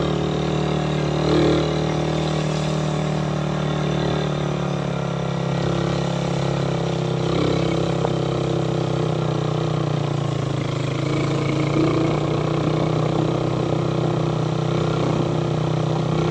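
Suzuki Raider 150's single-cylinder four-stroke engine running steadily, its pitch holding nearly level, under a constant hiss of wind and road noise.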